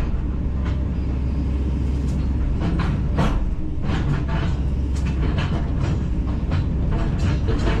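Kobelco 210LC-9 excavator's diesel engine running steadily under a deep rumble, with repeated sharp metallic clanks and knocks from the machine working.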